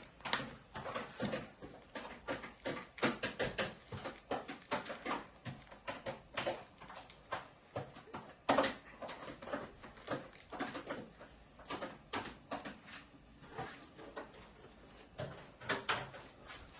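Irregular light clicks and knocks, several a second, with a sharper knock about eight and a half seconds in and a cluster near the end.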